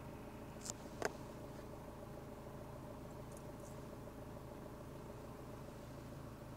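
Peugeot 407's 2.2 HDi four-cylinder diesel engine idling steadily, heard inside the cabin. Two sharp clicks of dashboard buttons come about a second in, the second the louder.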